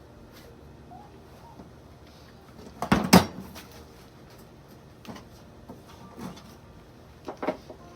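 A series of hard knocks and clunks from objects being handled during air-conditioner installation work. The loudest, a quick double clunk, comes about three seconds in, with fainter knocks later.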